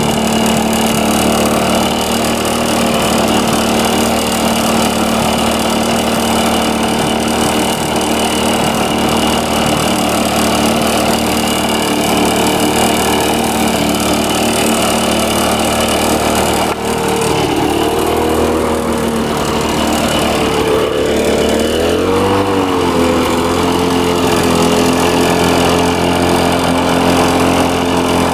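A 2004 Lawn-Boy 10550's DuraForce 6.5 hp two-stroke engine running steadily. About two-thirds of the way through, its pitch dips and recovers twice, then it settles at a slightly different note.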